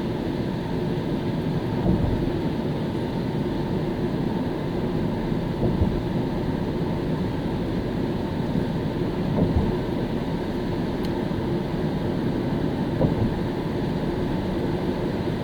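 A car driving on a wet road: steady low road and tyre noise with engine hum, with a soft bump or swell every few seconds.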